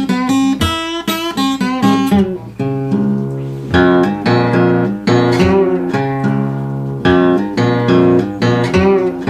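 Solo blues guitar playing an instrumental passage between sung lines: a run of plucked, ringing notes over low bass notes.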